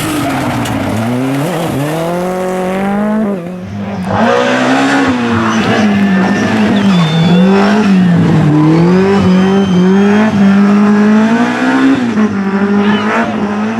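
Rally car engine driven hard, its pitch climbing and dropping repeatedly as it revs through gear changes and lifts, louder from about four seconds in. A few short high tyre squeals come around the middle.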